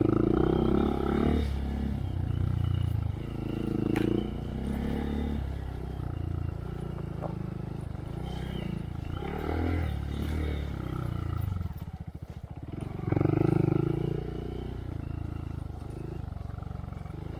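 Honda Monkey's single-cylinder engine running through a Yoshimura RS3 exhaust with spark arrestor, revving up and easing off in repeated surges on the trail, loudest at the start and again near the end.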